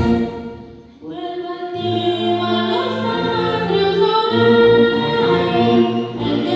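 Choir singing with orchestral accompaniment. The music fades into a short pause within the first second, then a new sung phrase begins and carries on.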